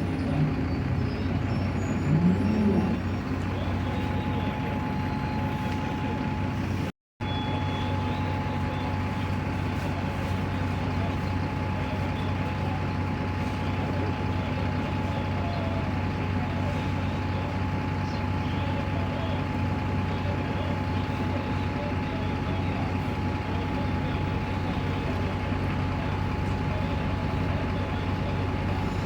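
Rear-mounted Mercedes-Benz OM906LA six-cylinder diesel of a city bus running at a steady idle, a constant engine hum with a thin steady whine above it.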